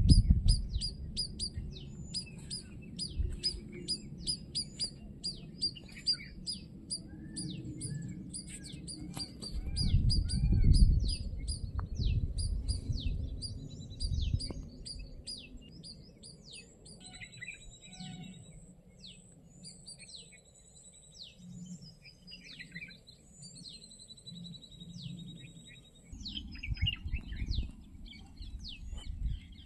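Small birds chirping and calling rapidly, many short high notes in quick runs, with a few longer held whistles partway through. A low rumbling noise comes and goes underneath, loudest about ten seconds in and again near the end.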